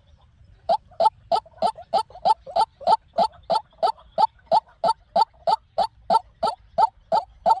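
White-breasted waterhen calling: a long run of short, evenly spaced notes, about three a second, starting after a brief pause near the start. This is the call used to lure waterhens to a trap.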